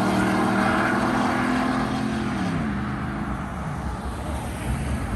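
A vehicle engine running loud at a steady pitch, then dropping in pitch about two and a half seconds in and fading away.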